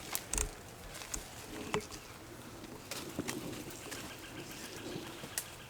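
Faint, low bird calls with a wavering, cooing quality, mostly in the second half, with a few sharp clicks scattered through.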